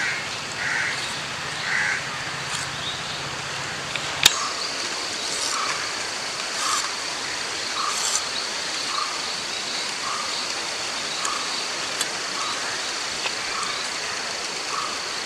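Outdoor ambience: a steady hiss with a steady high whine, and a bird giving short calls repeated at an even pace from a few seconds in. A single sharp click about four seconds in.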